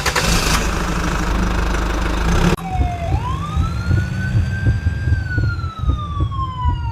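A loud, steady rushing noise that cuts off abruptly, followed by an emergency-vehicle siren wailing over a rumbling engine. The siren rises quickly, holds, then slides slowly down in pitch.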